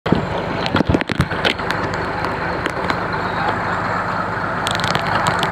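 An engine running steadily with an even low throb, with scattered knocks and clatter over it.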